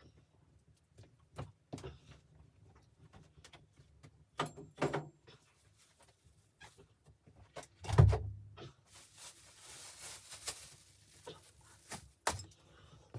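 Scattered knocks and taps, with one heavy low thump about eight seconds in, followed by a couple of seconds of rustling.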